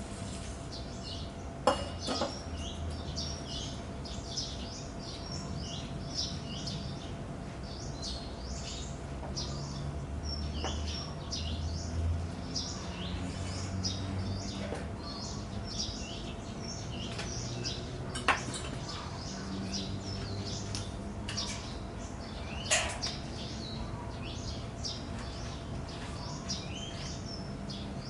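Many small birds chirping continuously, with a few sharp clicks, about four, the loudest about two seconds in.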